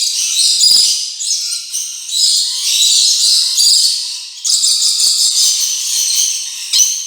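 Rainbow lorikeets chattering: a loud, shrill, continuous chatter of rapid high-pitched calls, dipping briefly a little past halfway.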